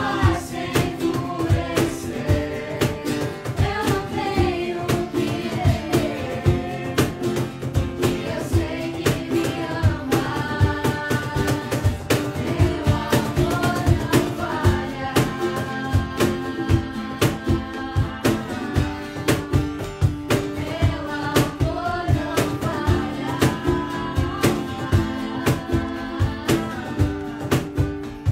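A song sung with a strummed acoustic guitar keeping a steady rhythm.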